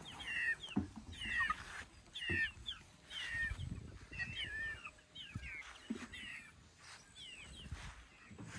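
Birds chirping in short, repeated phrases of quick falling notes, with a few dull thumps underneath.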